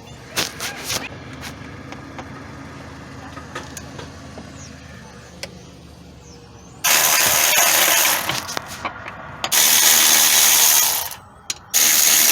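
Three loud bursts of compressed air from a pneumatic shop tool, each about one and a half seconds long and starting and stopping abruptly, after a few light tool clicks.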